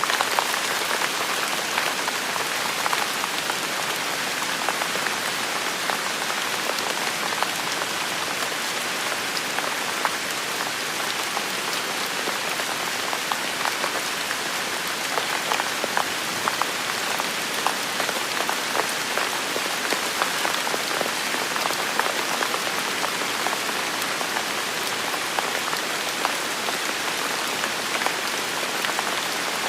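Steady rain falling on hard surfaces, a dense even hiss scattered with individual drop ticks; no thunder is heard.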